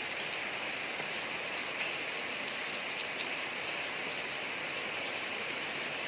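Steady rain falling on a street, an even hiss with scattered drop ticks.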